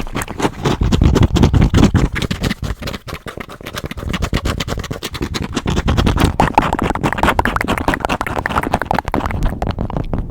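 Fast, aggressive scratching directly on a microphone: a dense, unbroken run of scratchy strokes with a heavy low rumble, loudest in two stretches, at the start and again from about six seconds in.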